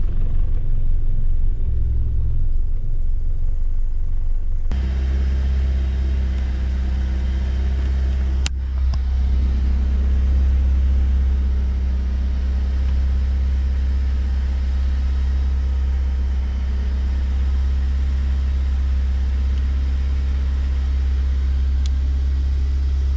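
BMW M43 four-cylinder engine idling cold and rough on an aftermarket idle control valve, its low note uneven for the first few seconds and then steadier. A single click about eight seconds in.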